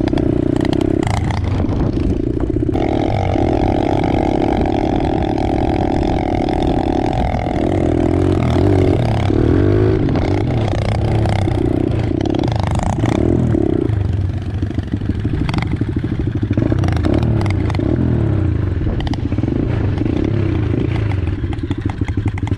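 110cc pit bike's single-cylinder four-stroke engine running under load as it is ridden, its pitch rising and falling in short steps with throttle and gear changes, with some rattling from the bike.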